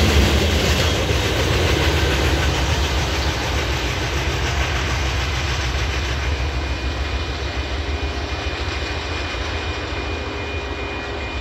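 Fast Union Pacific rock train of hopper cars rolling past and fading into the distance, its rumble and wheel noise growing steadily quieter.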